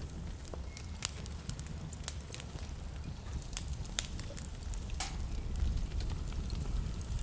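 Wood fire burning in a fireplace: irregular sharp crackles and pops, several each second, over a steady low rumble of the flames.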